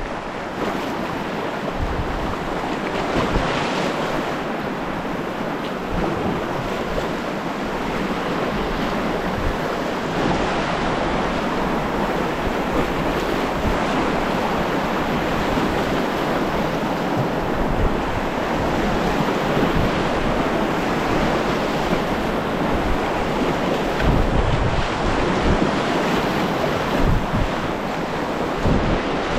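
Steady rush of river water around a kayak, with wind rumbling on the microphone near the start and again near the end.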